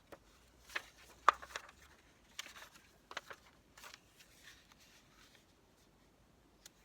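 Paper and craft materials being handled on a tabletop: a few scattered taps and soft rustles, the sharpest tap about a second in, then quieter handling.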